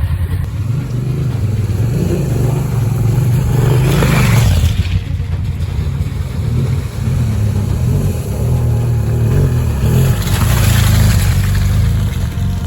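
Dual-sport motorcycle engine running under throttle off-road, its pitch rising and falling as the rider works the throttle. Two rushes of noise come around four seconds and about eleven seconds in.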